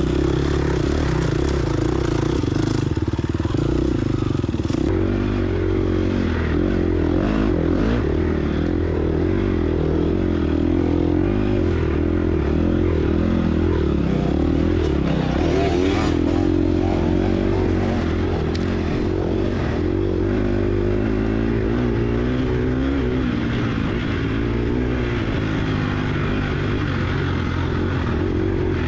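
Dirt bike's 250 cc single-cylinder four-stroke engine (2022 Gas Gas EX250F) running under load, its pitch wavering up and down as the throttle is worked.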